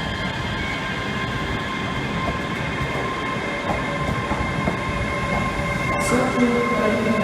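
Train running: a steady rumble with a thin high whine, growing a little louder near the end, and a sharp click about six seconds in.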